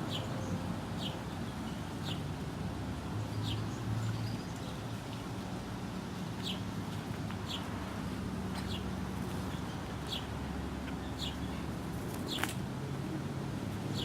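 A wild bird chirping repeatedly, short high chirps about once a second, over a steady low background rumble.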